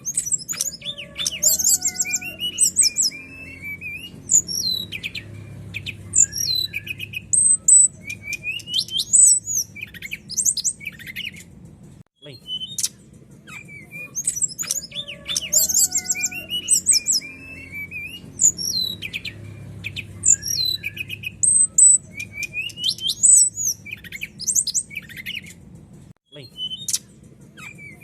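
Brown-chested jungle flycatcher (sikatan rimba dada coklat) singing a clear, varied song of rapid chirps, trills and whistled notes, over a steady low hum. The same song sequence repeats about every 14 seconds, broken by a short gap in the middle and another near the end.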